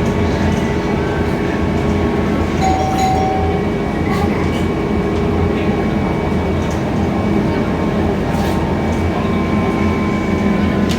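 Cabin sound of a Scania K320iA CNG city bus under way: a steady engine hum and road noise with scattered clinks and rattles from the body and fittings. A short high tone sounds about three seconds in.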